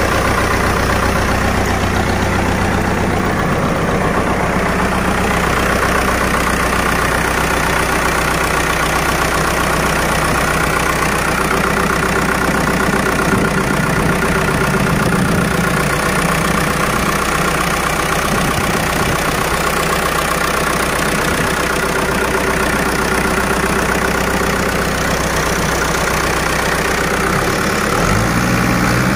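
New Holland Dabung 85 tractor's diesel engine idling steadily, with its note shifting briefly near the end.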